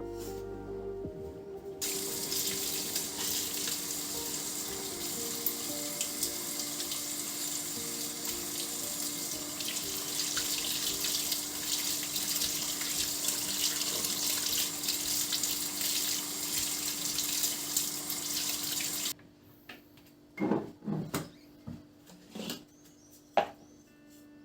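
Water running from a tap into a sink: it comes on about two seconds in, runs steadily, and is shut off suddenly near the end, followed by a few light knocks and clinks.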